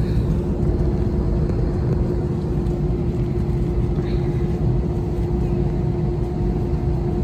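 Airliner cabin noise: a steady low rumble with a constant hum underneath.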